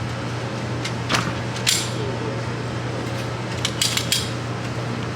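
A few sharp metallic clicks and clinks, with a quick cluster of them near the end, over a steady low ventilation hum.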